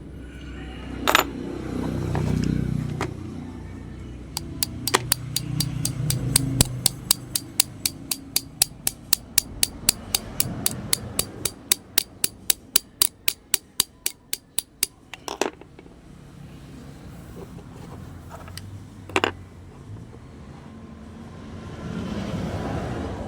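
A run of sharp, even mechanical clicks, about four a second for some ten seconds, over a low rumble, with a couple of single knocks afterwards.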